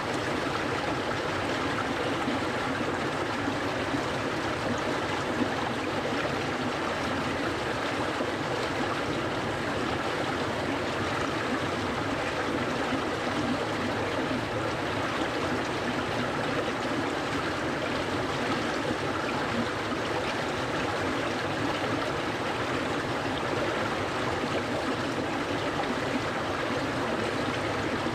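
Stream water running steadily, a continuous even rush with no breaks or changes.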